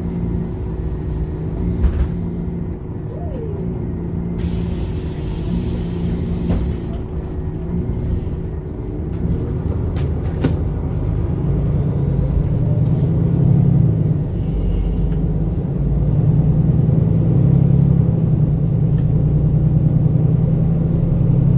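MAN Lion's City A21 articulated bus running, its engine hum steady at first and then growing louder from about eleven seconds in as the bus gathers speed, with a faint high whine rising in pitch. A single sharp click about ten seconds in.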